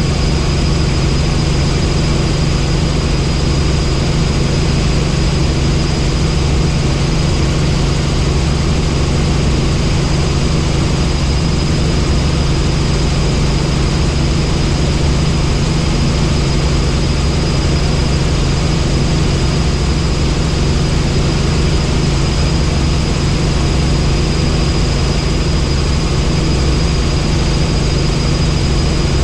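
Helicopter in flight: the steady drone of its engine and rotor, with a thin, steady high whine above it.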